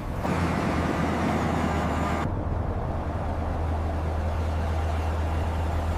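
Steady low drone of heavy machinery, with a hiss over it that cuts off suddenly a little over two seconds in, leaving the low drone.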